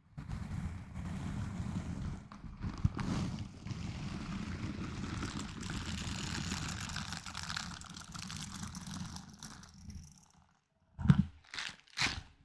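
Close-miked ASMR handling of an object: about ten seconds of steady textured rubbing and handling noise, then a short pause and four sharp taps or clicks near the end.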